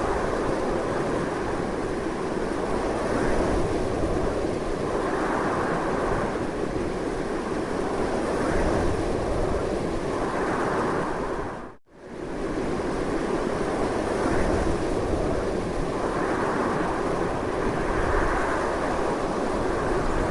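Strong, steady wind rushing, swelling and easing slightly. It dips out for a split second a little past halfway, then comes straight back.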